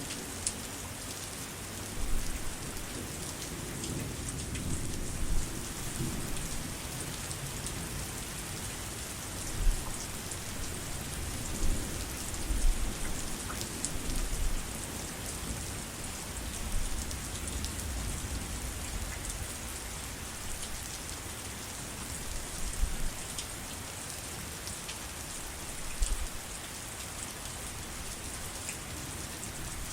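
Steady heavy rain pattering on surfaces, with low rumbles of distant thunder swelling and fading several times, mostly in the first half.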